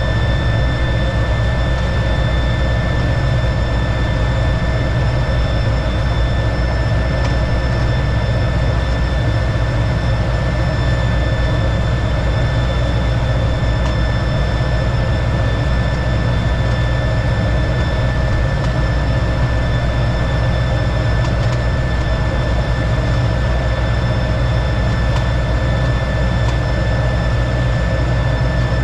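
T-33 jet trainer's turbojet running steadily, a loud constant noise strongest at the low end with a steady high-pitched whine over it.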